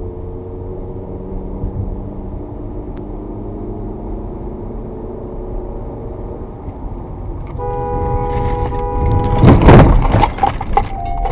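Steady road and engine rumble from a moving car. Near the end a car horn sounds, followed by a loud crash like a collision, with clinking debris after it.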